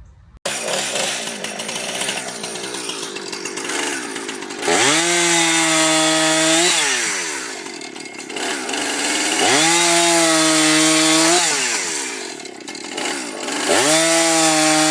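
Chainsaw engine running, revved up to full throttle three times; each time the pitch climbs quickly, holds steady for about two seconds, then drops back to a rougher, lower run.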